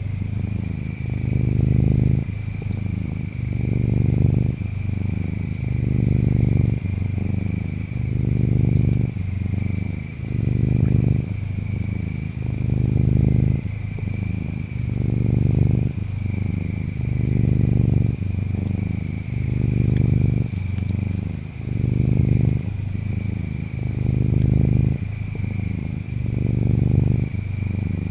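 Domestic cat purring close up, swelling and easing in a steady rhythm about once every two seconds as it breathes in and out. Under it, insects chirr with a steady thin high tone, and higher chirps come in short bursts every few seconds.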